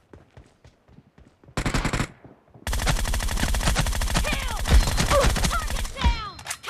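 Video game automatic gunfire: a short burst about a second and a half in, then a long sustained burst of rapid shots lasting about three seconds, with falling pings in its later part.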